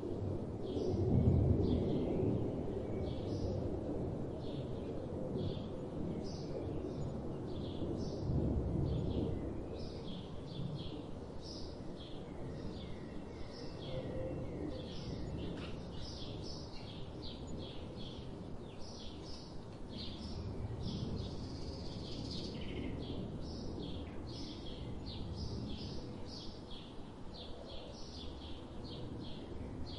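Small birds chirping repeatedly, several short high calls a second, over a low background rumble that is louder in the first few seconds.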